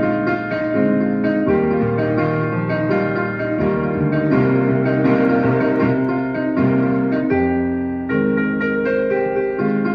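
Piano music: sustained chords and melody notes, changing every half second or so.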